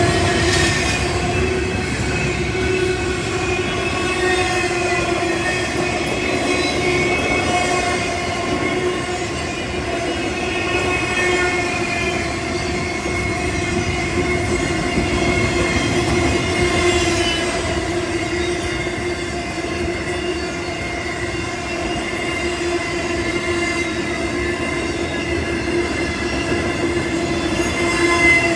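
Norfolk Southern freight train rolling past, a steady rumble with several sustained metallic tones ringing over it.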